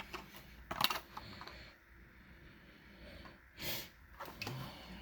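Faint handling noises: a few light clicks and taps just under a second in, and a short rustle about three and a half seconds in.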